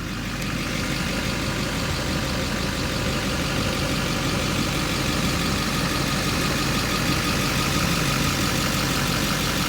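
Duramax 6.6-litre turbo diesel of a 2008 Chevrolet Silverado 2500 idling steadily.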